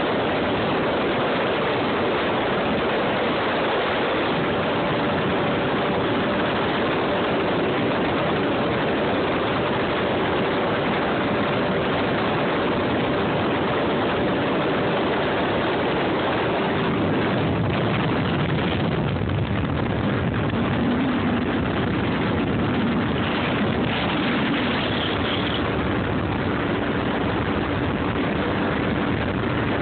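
Jet ski engine running steadily under a dense rush of noise, its tone dropping lower about halfway through.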